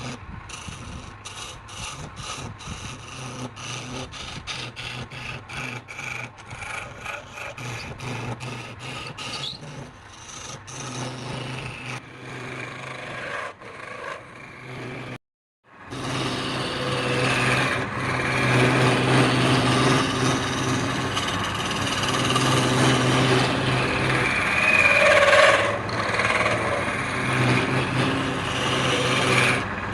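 Wood being worked by hand with a rasp-like scraping, in regular strokes a little under three a second. After a sudden break about halfway through, a louder motor-driven woodworking machine runs with a steady hum while a tool scrapes the wood.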